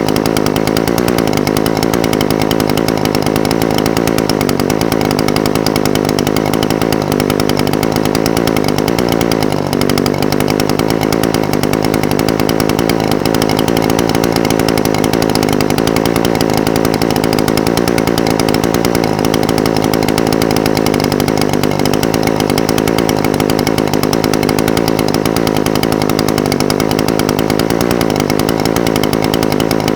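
Echo SRM-420TES brush cutter's two-stroke engine idling steadily, its pitch wavering slightly every few seconds.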